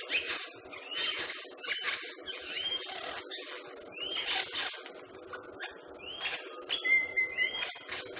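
Bird calls: short arching whistled notes repeating about once a second, with a brief steady note about seven seconds in, over scattered clicks and a steady low background hum.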